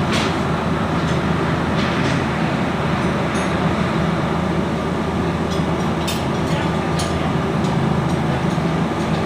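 A steady mechanical hum from running machinery, with a few sharp metallic clicks scattered through it.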